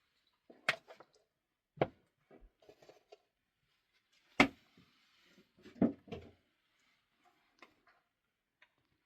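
Several separate sharp knocks and clatters a second or two apart, the loudest about halfway through, with a cluster of smaller rattles just after it and a few faint ticks near the end.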